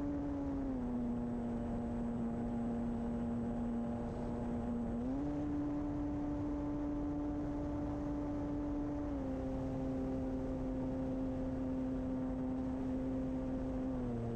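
Electric motor and propeller of an FMS Kingfisher RC plane humming steadily, the pitch dropping about a second in, rising at about five seconds, then dropping in steps near nine seconds and near the end as the throttle is changed. Wind noise rumbles underneath.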